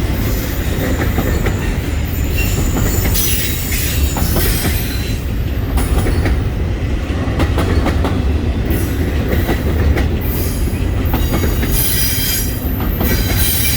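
Norfolk Southern freight train's cars rolling past: a steady low rumble of steel wheels on rail, with repeated clicks over rail joints and intermittent high-pitched wheel squeal.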